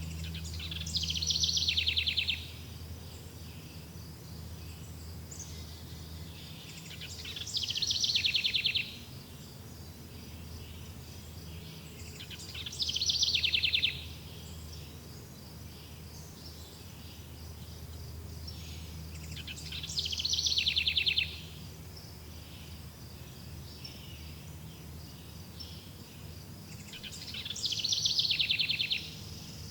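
Nature ambience: a rapid, high trilling call comes five times, about every six to seven seconds. Each call swells for about a second and a half, then cuts off suddenly. Under it runs a continuous high insect chirring and a low steady hum.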